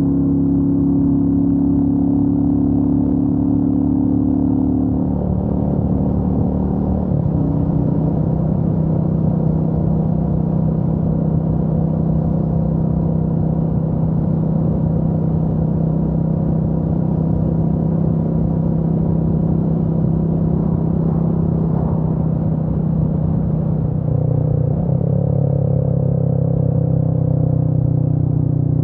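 Royal Enfield Meteor 350's single-cylinder engine running under way on the road, with a steady engine note. The pitch drops and settles about five to seven seconds in, and changes again about twenty-four seconds in.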